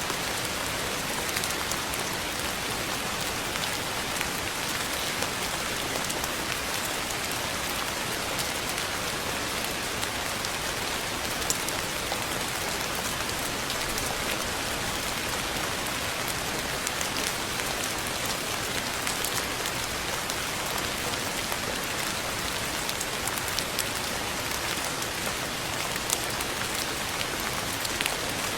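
Steady rain falling, an even hiss with scattered small drop ticks on a hard surface.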